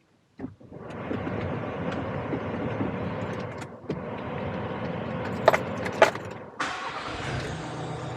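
A van's engine running steadily, with two sharp clicks about five and a half and six seconds in; near the end the sound changes to a steadier low hum.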